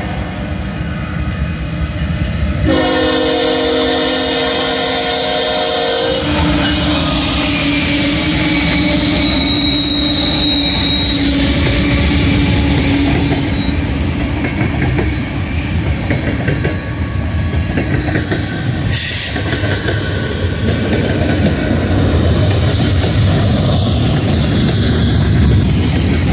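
Diesel freight locomotive sounds one long horn blast a few seconds in as it reaches the grade crossing, then the train passes close by with its covered hopper cars rolling steadily over the rails. A brief high squeal is heard about ten seconds in.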